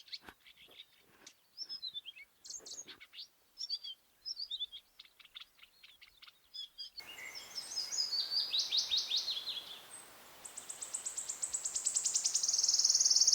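Small birds calling and singing: high chirps and short sliding notes. Partway through, a louder song follows with fast trilled phrases, the last a rapid, even trill that swells to the end.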